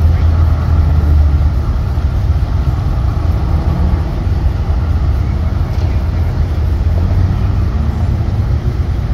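A car's engine idling close by with a steady low rumble, a competitor car staged and waiting at an autocross start.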